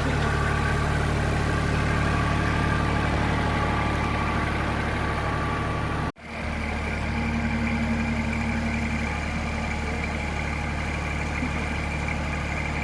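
Tractor engine running steadily at idle. The sound cuts out for a moment about six seconds in, then resumes.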